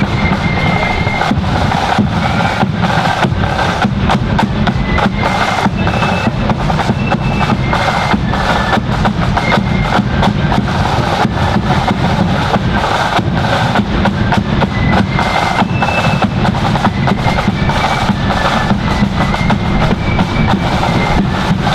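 Marching flute band playing: rapid snare drum and bass drum beats, with a high flute melody over the top.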